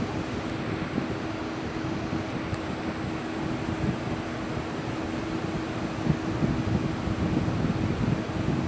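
Heavy vehicle's engine running while driving: a steady drone with an even hum and irregular low rattling.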